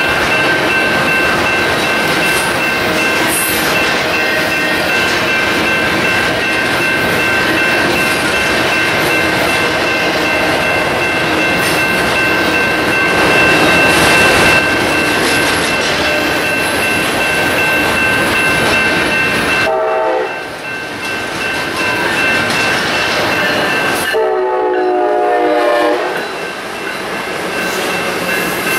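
Double-stack intermodal container train rolling past with steady rumble and wheel clatter, and a steady high-pitched squeal. Near the end a train horn sounds twice, a short blast and then a longer one a few seconds later.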